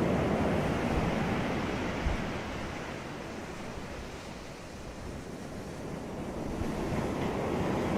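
Sea waves breaking on a beach: the rushing wash of one wave dies down to a lull about halfway through, then the next wave swells in.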